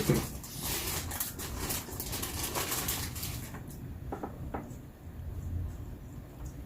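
Rustling and scraping of food and utensils being handled as salsa is spooned onto a tortilla, followed by two light clicks about four seconds in.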